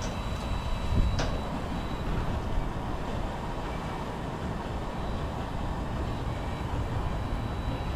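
Steady low rumble of a vehicle heard from inside its cabin, with a single sharp click about a second in.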